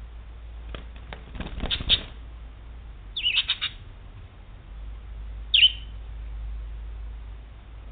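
Pet budgerigar chirping: a quick run of short chirps about three seconds in and one more chirp near six seconds. Before them comes a brief burst of rustling and clicks.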